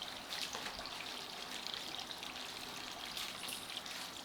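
Water trickling steadily, with many small scattered clicks over it.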